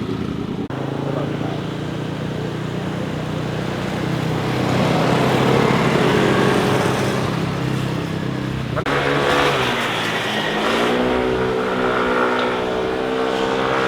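Motorcycle engines passing: one runs steadily and grows louder toward the middle, then after an abrupt cut another accelerates, its pitch climbing.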